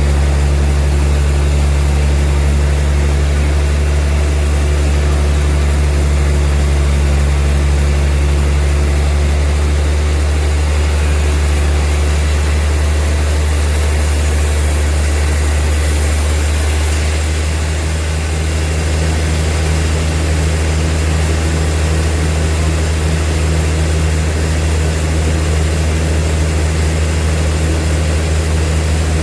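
Bandsaw sawmill machinery running with a steady, loud, low drone. A little past halfway the drone dips briefly and settles into a slightly different pitch.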